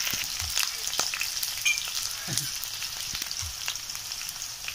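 Sliced onions and green chillies frying in hot oil in a kadhai: a steady sizzling hiss with many small crackles and pops.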